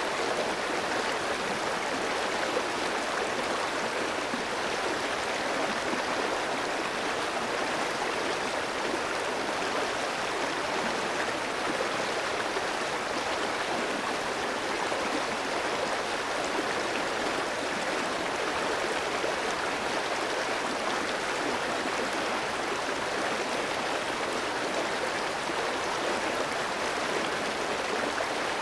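A clear, shallow stream running steadily over rocks, an even rush of water with no breaks.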